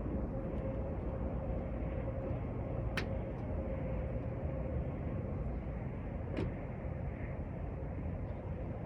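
Steady low rumble of a moving vehicle with a thin constant tone running through it, and two sharp clicks about three seconds apart.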